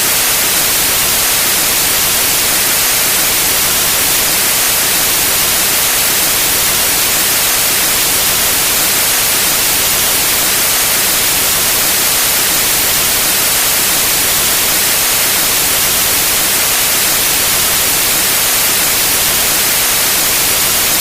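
Steady white noise: an even, unchanging hiss spread across all pitches, brightest in the highs.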